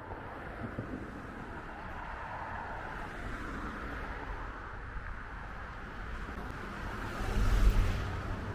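City street traffic running steadily, with one vehicle passing close about seven seconds in: a low rumble and tyre hiss that swell to the loudest point, then fade.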